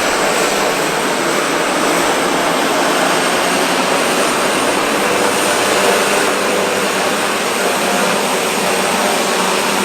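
Aircraft engines running at high power for takeoff, a loud, steady rushing noise with no distinct tone.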